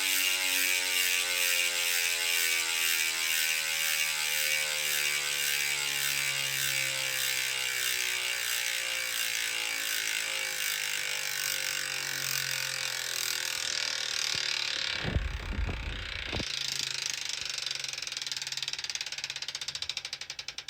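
Mavic 360 rear hub with a 40-tooth ratchet freewheeling as the bike's wheel coasts. It makes a fast, even ratchet buzz that slows steadily as the wheel loses speed, and by the end it is breaking into separate ticks. A brief low rumble comes about three quarters of the way through.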